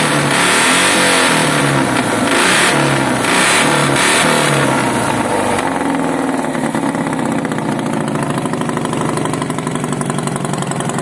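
Dnepr MT-16 motorcycle's flat-twin engine running through a homemade exhaust made of water pipe, revved in repeated quick blips of the throttle for about the first five seconds, then dropping back to a steady, pulsing idle.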